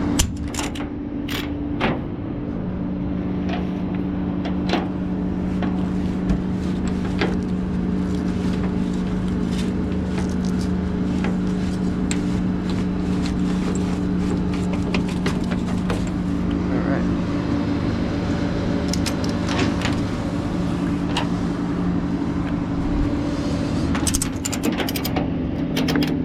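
Rollback tow truck's engine running steadily with its hydraulics engaged, a constant hum whose pitch shifts slightly about two-thirds of the way through. Scattered metallic clicks and clanks sound over it.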